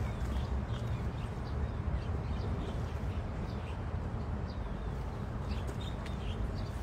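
Birds chirping in short falling notes, more often near the end, over a steady low rumble.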